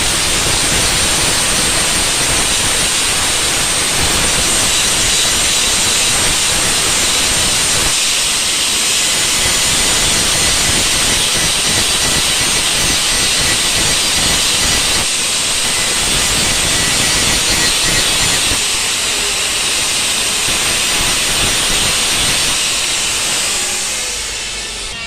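A steady, loud hiss that fades slightly near the end.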